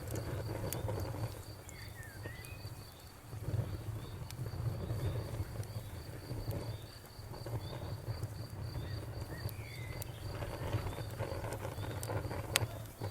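Crickets chirping in a steady, even pulse about four times a second over a crackling bonfire: a low, wavering rumble of flames with scattered pops, the loudest a sharp crack near the end.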